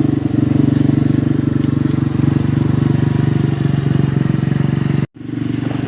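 Fishing boat's engine running steadily with a fast, even throb, cut off for a split second about five seconds in before the same drone returns.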